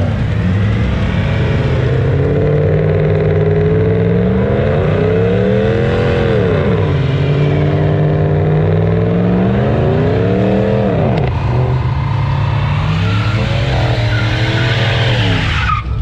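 Engine of a vehicle doing a burnout, revved hard with the throttle worked so the note rises and falls several times, over a steady low rumble. Spinning tyres add a hiss.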